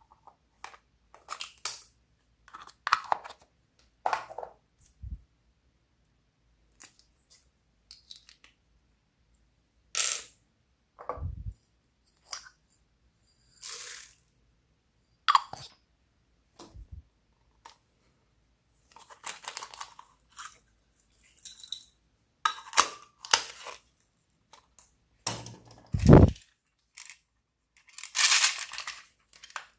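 Slime being worked by hand, giving short bursts of sticky clicks and crackles separated by silent gaps, with a few dull thumps, the loudest one near the end.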